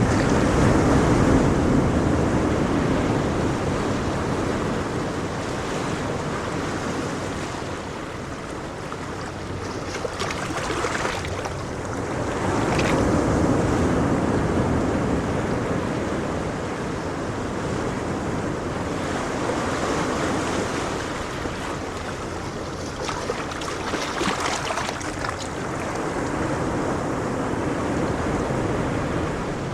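Ocean surf washing in: a continuous rushing hiss that swells and eases every several seconds as waves break and draw back.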